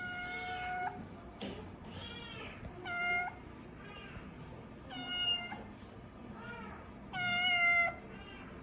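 Kitten meowing repeatedly: four loud, long cries held at a level pitch, with softer, shorter mews that rise and fall between them.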